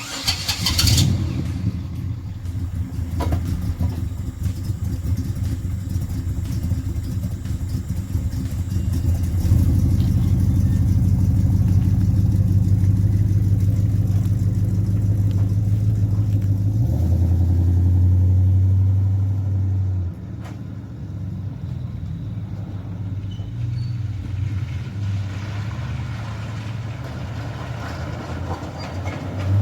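Truck engine started and running, held at higher revs from about ten seconds in, then dropping back to a lower idle about twenty seconds in.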